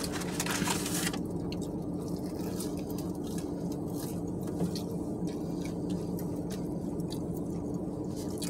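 Chewing and small wet mouth clicks from people eating fried chicken sandwiches, over a steady low hum in the car's cabin. A brief rustling hiss in the first second.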